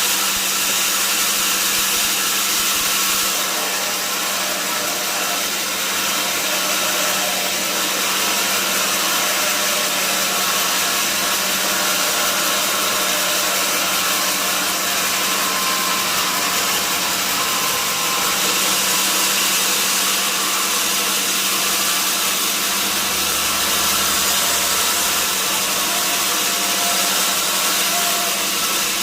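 Sawmill saw running steadily, a loud even noise with a constant low hum under it.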